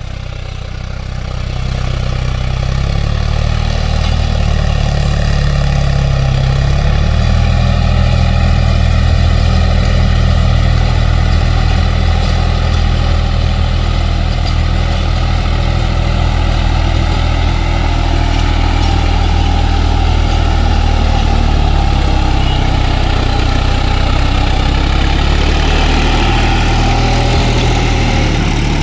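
New Holland tractor's diesel engine running steadily, getting louder about two seconds in.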